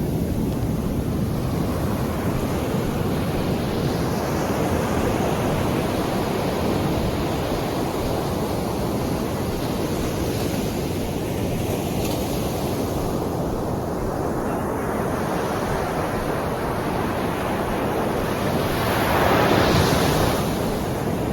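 Sea waves washing onto the shore in a steady rush, with one louder wave breaking near the end. Wind buffets the microphone.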